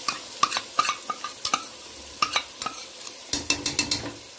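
Mutton and masala frying in an open pressure cooker, with a steady sizzle. A spoon scrapes and clicks against the bowl and cooker as spiced yogurt is tipped in, with a quick run of taps near the end.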